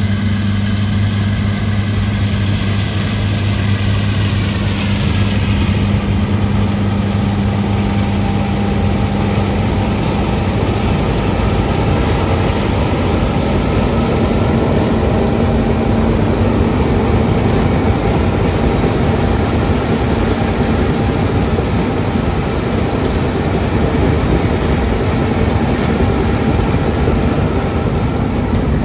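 Combine harvester running steadily under load while cutting and threshing a heavy, strawy wheat crop, a constant low engine hum with machinery noise over it. Some of its higher tones dip slightly about five seconds in.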